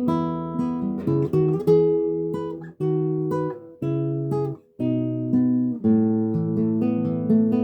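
Acoustic guitar played fingerstyle: single picked notes and ringing chords in a slow exercise-like passage, broken by brief pauses between phrases near the middle.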